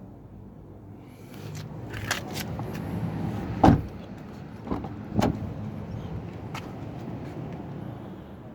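Daihatsu Ayla's 1.0-litre engine idling steadily, with a few clicks and thumps between about two and five seconds in, the loudest nearly four seconds in.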